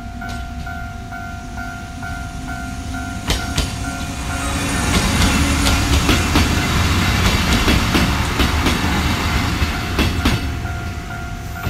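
A Japanese level-crossing warning bell rings with a steady repeating chime, about three strokes a second, as a red electric commuter train runs past over the crossing. The train's rumble builds from about four seconds in, with its wheels clacking over the rail joints, then eases off near the end.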